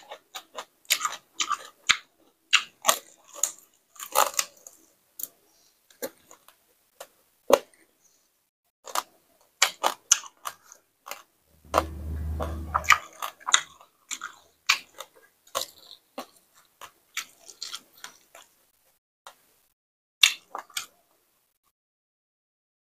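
Close-up eating sounds: a person chewing crispy fried pork belly, rice noodles and raw vegetables, with a continuous run of short crunches and wet chewing clicks. A low rumble lasting about a second comes just past the middle.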